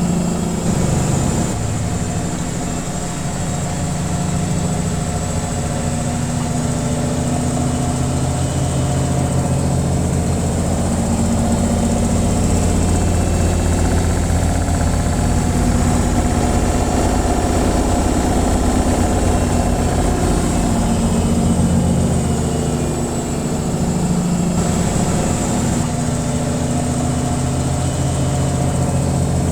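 Washing machine on its spin cycle: a steady low hum and whirr of the motor and drum that swells and eases slightly over several seconds.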